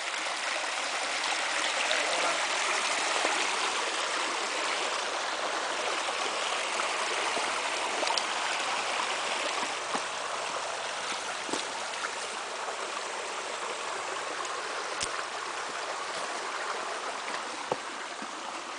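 Stream water flowing steadily, with a few faint knocks now and then.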